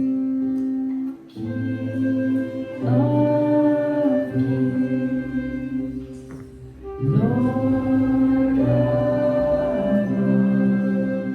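Live worship music: long held instrumental chords with singing that swells in two phrases, one about three seconds in and another about seven seconds in.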